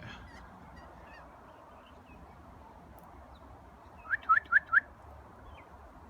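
A parrot giving four short, loud squawks in quick succession about four seconds in, each rising slightly in pitch, over faint background bird chirps.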